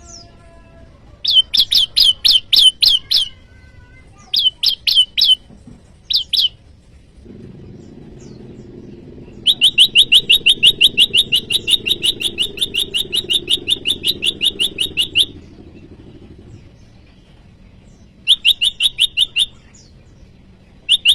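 A prenjak lumut singing in loud bursts of rapid, evenly repeated chattering notes, about five to six a second. The bursts are short, with one long run in the middle: its calling song used to challenge rival birds. A low rumble sits underneath during the long run.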